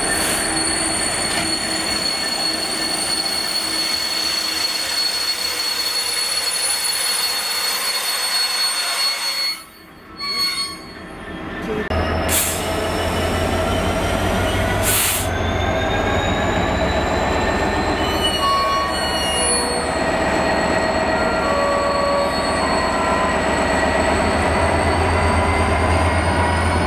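Freight train wheels and brakes squealing with several steady high tones as the GB Railfreight Class 66 comes to a stand. It briefly goes quieter about ten seconds in. Then the locomotive's EMD two-stroke V12 diesel takes over with a deep throb that slowly rises in pitch as it powers up, broken by two brief sharp noises.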